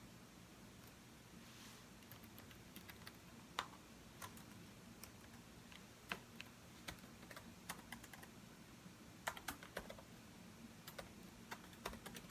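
Typing on a computer keyboard: irregular keystrokes, a few at a time with short pauses, starting about two seconds in. It is faint, over a steady low hiss.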